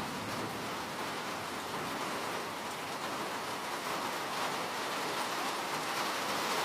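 Steady rain falling, an even hiss of many raindrops with a slight swell toward the end.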